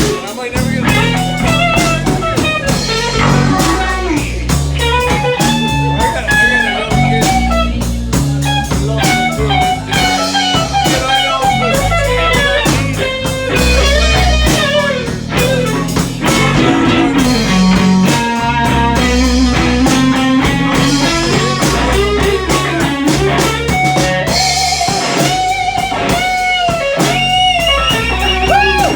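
Live blues band playing an instrumental break of a slow blues shuffle. The electric guitar leads with bent and sliding notes over bass and drums.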